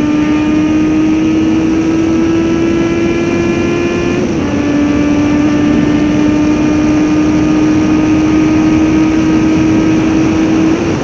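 A vehicle engine running steadily at speed over a rush of wind. Its pitch climbs slowly, dips slightly about four seconds in, climbs again and dips once more near the end.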